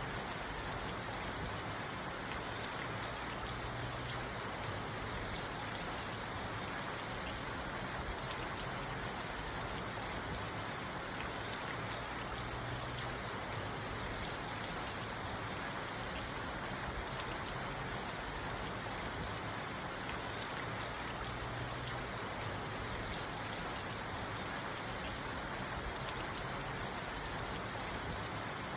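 Steady rain falling on a parked car, heard from inside the cabin as an even patter on the roof and glass.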